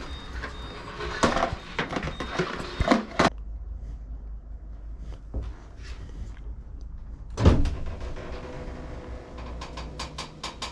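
Workshop handling noises while working on a walk-behind lawn mower: irregular knocks and clatter of metal parts and tools, with one loud knock about seven seconds in and a quick, even series of clicks near the end.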